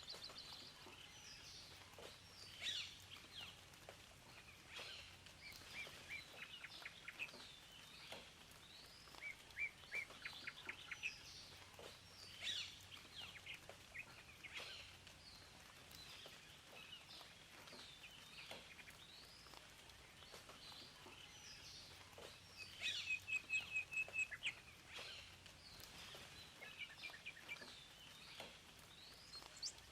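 Several songbirds singing and chirping, with bursts of rapid repeated trill notes, the loudest a little over two-thirds of the way in, over a faint steady hiss.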